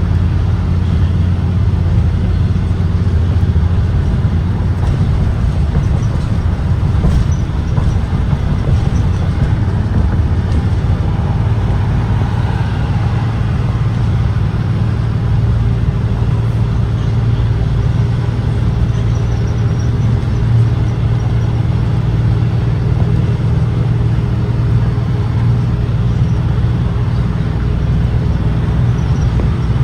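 2023 Blue Bird Vision propane school bus under way: a steady low engine hum over road noise, rising in pitch after about four seconds as the engine speeds up.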